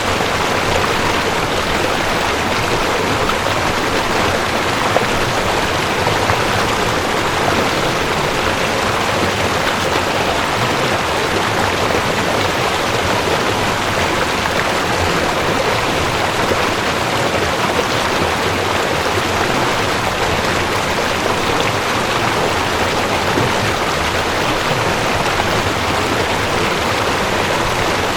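Mountain stream rushing over rocks: a steady, unbroken water rush.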